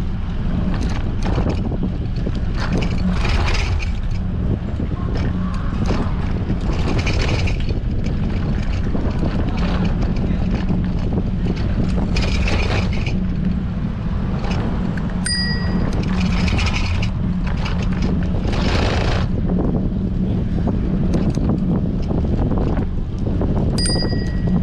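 Strong wind buffeting an action camera's microphone during a bicycle ride: a steady low rumble with gusts swelling and fading. A bicycle bell dings twice, about 15 seconds in and again near the end.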